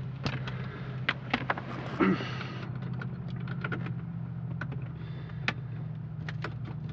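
Scattered clicks and knocks of a headset being handled and its plugs pushed into the jacks, with a longer rattling knock about two seconds in, over a steady low hum.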